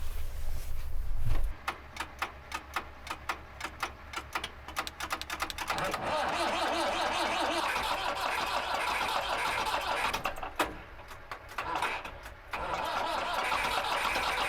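A tractor engine is cranked over with a quick run of clicking strokes for about four seconds, catches about six seconds in, and runs steadily, dropping off briefly near the end. A deep engine rumble cuts out just before the cranking begins.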